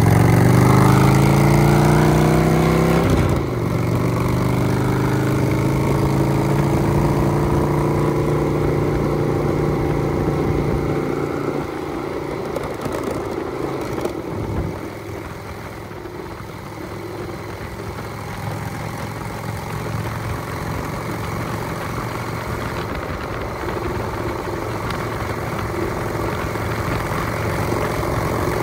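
Truck engine accelerating, climbing in pitch for about three seconds, then dropping sharply as it shifts up a gear. It then runs on steadily at cruising speed, easing off a little later on.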